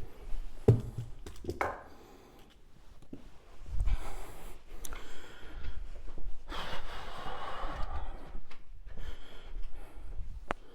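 Irregular handling noises from equipment being moved and set aside: scattered knocks and rustling, with a person breathing.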